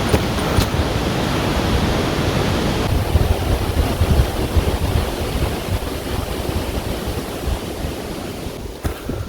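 Strong mountain wind blowing steadily, with gusts buffeting the microphone in a low rumble; it eases a little near the end.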